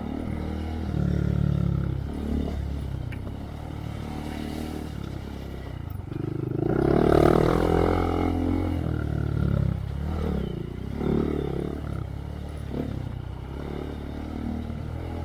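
2023 Honda Monkey's single-cylinder four-stroke engine, fitted with a Yoshimura RS3 exhaust, running while trail riding. The revs rise and fall with the throttle, with the loudest rev about seven seconds in.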